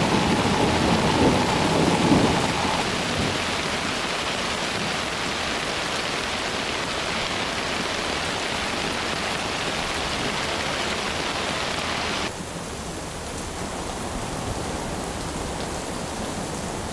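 Heavy rain pouring steadily in a thunderstorm, with low thunder rumbling through the first two seconds or so. About twelve seconds in, the rain abruptly sounds duller and a little quieter.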